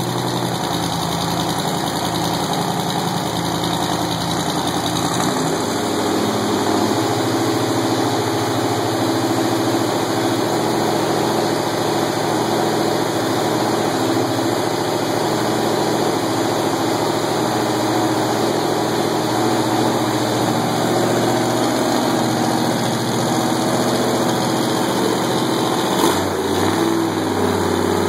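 Freshly installed Ford 390 V8 in a 1965 Galaxie 500 running at idle on its test run. The idle changes pitch slightly about five seconds in, and a single sharp click sounds near the end.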